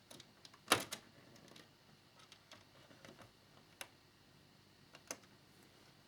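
Small clicks and taps of small model parts and screws being handled on a work surface: a sharp double click about a second in, single clicks near four and five seconds, and faint ticks between.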